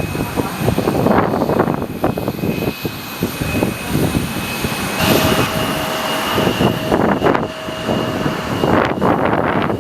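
Airliner engines whining steadily at the airport, half-buried under heavy wind buffeting the microphone in gusts. The engine tones change pitch about halfway through.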